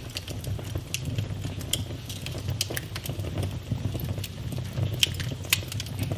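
Wood fire burning in a fireplace: a steady low rumble of the flames with irregular sharp pops and crackles from the burning logs, the loudest two about five seconds in.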